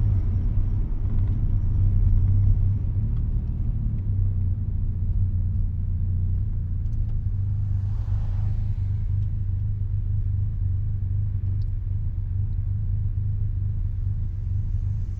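Mazda RX-7's two-rotor rotary engine droning through an RE Amemiya Dolphin Tail 90 Curl exhaust, heard from inside the cabin with the windows down. It keeps a steady low rumble, a little louder for the first couple of seconds, then evens out.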